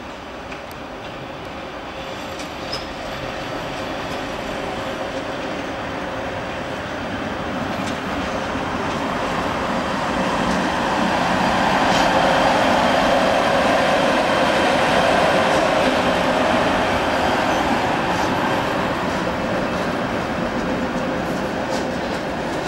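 DB Class 103 electric locomotive hauling a train of coaches rolls through the station. Its running noise grows over about ten seconds, is loudest as the locomotive passes about twelve seconds in, then slowly eases off as the coaches roll by.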